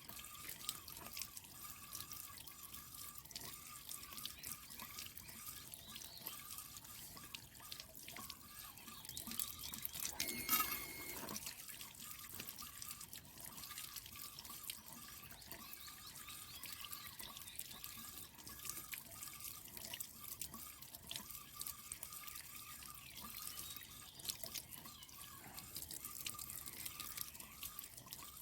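Water dripping and trickling as a water-tank filter is washed by hand, growing briefly louder about ten seconds in.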